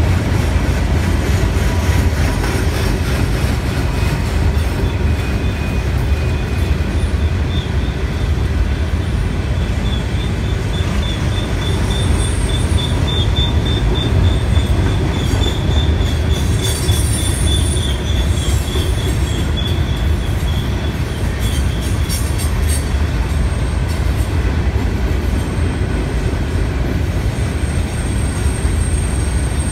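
Train rolling past with a steady heavy rumble of wheels on rail. A high, slightly pulsing wheel squeal comes in about a quarter of the way through and fades out about three-quarters of the way through.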